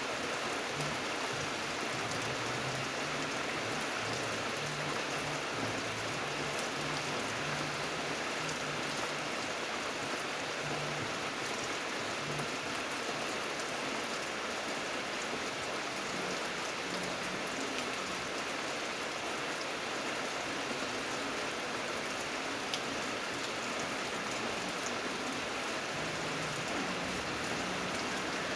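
Steady rain falling: an even hiss of many drops, with faint ticks of single drops striking a surface.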